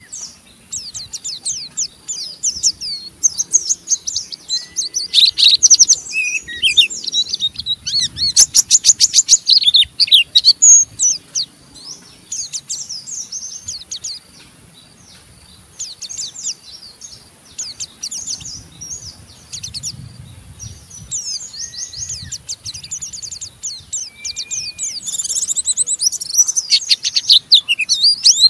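White-eye (pleci) singing its fast, harsh twittering 'ngeriwik' song: dense runs of high chirps and rapid ticking trills in bursts, with a short lull about halfway through and a few brief level whistles lower down.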